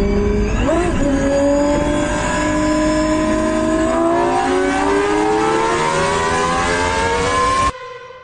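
MAN truck engine accelerating, its pitch rising steadily for several seconds. It cuts off abruptly near the end, leaving a brief fading echo.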